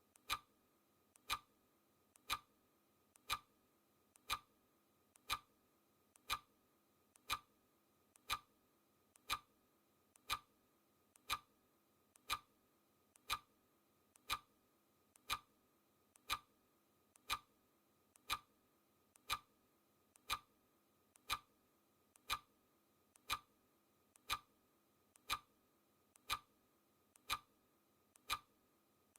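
Mechanical clock ticking steadily, about one tick a second, with a fainter click between the main ticks.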